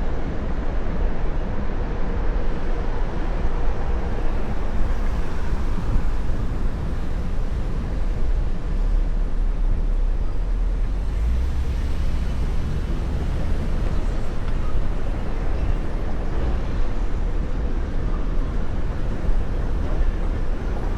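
Steady wind rush on the camera microphone of a moving Onewheel rider, mixed with tyre and city traffic noise.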